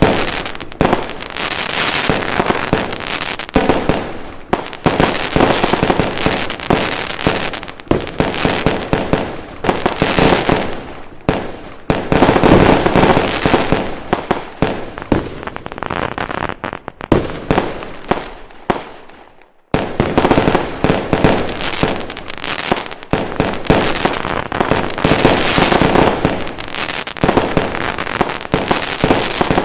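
Fireworks going off in a dense, continuous barrage of rapid bangs and crackles. It fades out briefly about two-thirds of the way through, then starts again abruptly.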